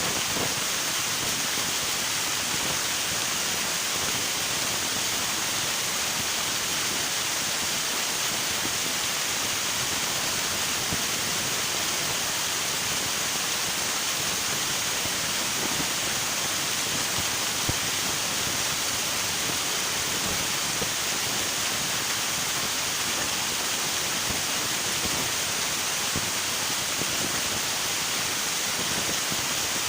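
River water rushing, a steady even hiss with no breaks.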